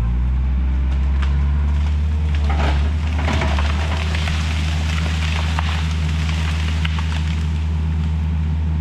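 Takeuchi TL130 track loader's diesel engine running steadily under load. From about two and a half seconds in, a large tree cracks and crashes over as the loader pushes it down, with a few seconds of snapping and crackling branches and roots.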